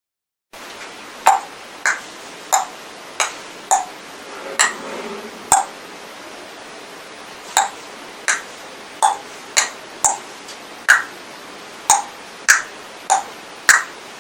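Mouth-made imitation of a ball game rally: a string of short, sharp pings about one and a half a second, alternating between a lower and a higher pitch, over a steady hiss. It starts about half a second in, after a moment of silence.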